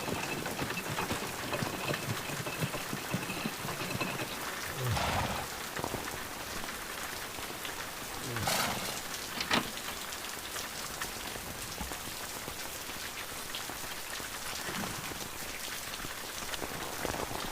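Rain falling steadily, with a few brief, louder sounds around the middle.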